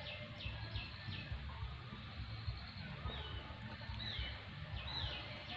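Birds calling: a quick run of short chirps, about three a second, in the first second, then three whistled notes sliding down in pitch about a second apart, over a steady low rumble.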